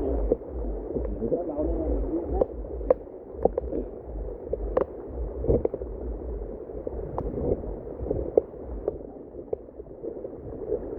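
Steady rush of waterfall water with a low rumble underneath, broken by scattered sharp taps.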